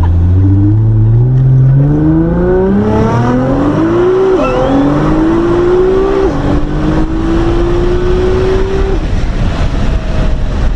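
Nissan GT-R R35's twin-turbo V6 under full-throttle acceleration, heard from inside the cabin. The engine note climbs steadily in pitch, drops quickly at two upshifts about four and six seconds in, then fades about nine seconds in as the throttle is lifted, leaving road and wind noise.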